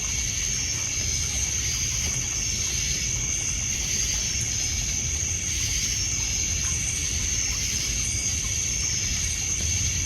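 Crickets and other night insects trilling steadily at a high pitch, over a low, even wash of water lapping on a pebble beach.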